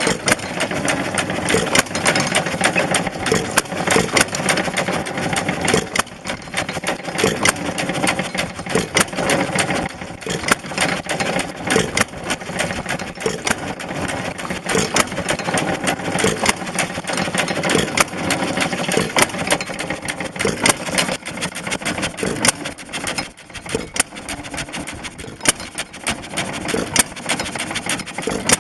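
A 1¼ horsepower Monitor hit-and-miss engine running while it drives its attached pumpjack and water pump. The running is mixed with many sharp clicks and knocks.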